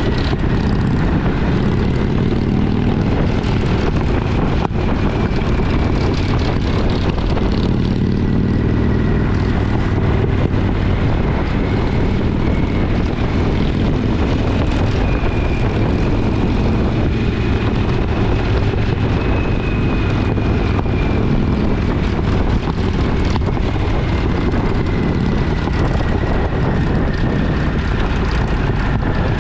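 A twin-cylinder motorcycle engine running at a steady cruising speed, with wind and road noise.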